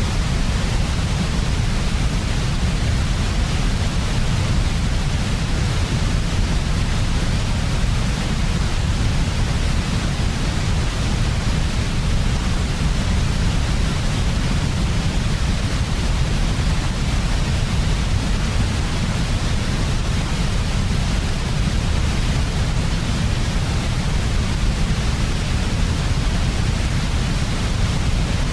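Steady white noise for sleep: an unchanging hiss with a strong low rumble beneath it, no changes or breaks.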